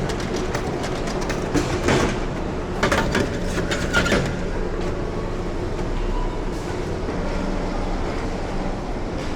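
Steady running rumble of a moving vehicle, with clusters of rattling clicks in the first half.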